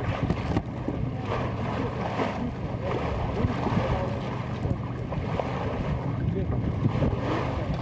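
Wind buffeting the camcorder microphone aboard a sailboat, with water washing along the hull. It is a steady, rough rumble with some crackle.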